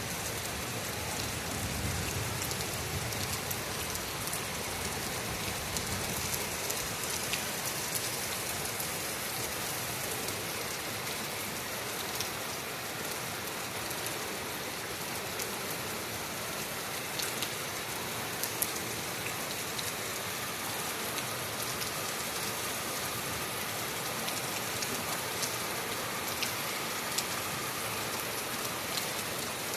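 Heavy rain falling steadily, with scattered sharp ticks of drops striking nearby. A low thunder rumble fades out in the first few seconds.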